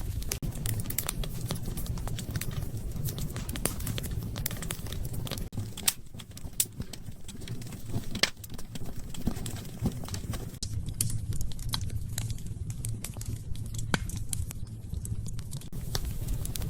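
Wood fire in a fireplace crackling: irregular sharp pops and snaps over a steady low rumble of the flames, with a few louder pops about six and eight seconds in.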